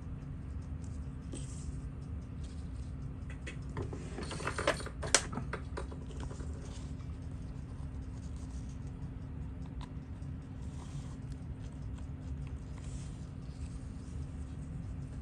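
Small clicks and scratches of watchmaking tools on a vintage Seiko 6138 chronograph during disassembly, gathering into a brief flurry about four seconds in that ends with one sharp click, then only faint scattered ticks over a steady low hum.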